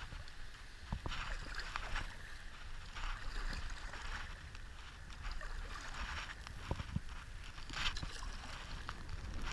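Stand-up paddle strokes splashing in river water, one every second or two, over a steady flow of water and a low wind rumble on the microphone.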